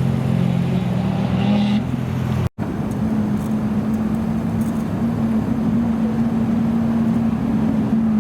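Supercar engine idling steadily. It cuts off abruptly for a moment about two and a half seconds in, then an engine idles again at a slightly higher pitch.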